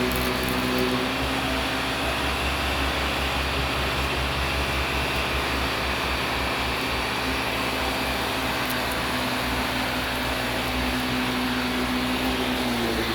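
Vacuum cleaner running steadily, its motor hum shifting slightly in pitch near the end.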